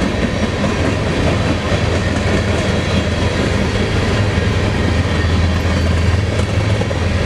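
Diesel locomotive at the rear of a freight grain train passing: a steady low engine drone over the continuous noise of wheels on the rails.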